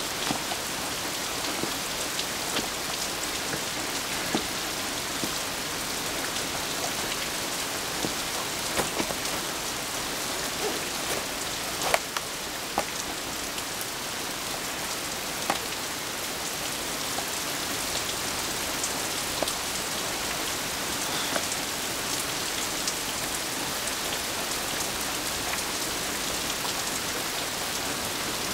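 Steady rain falling on and around a bus shelter, with scattered sharper taps of drops.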